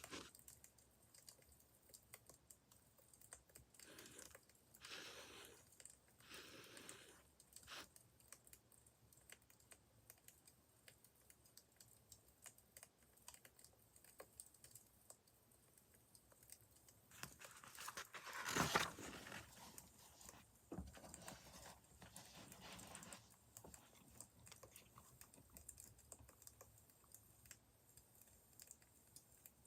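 Faint crackling of a wood fire: a steady scatter of small pops and snaps. A few brief rustles stand out, the loudest about two-thirds of the way through.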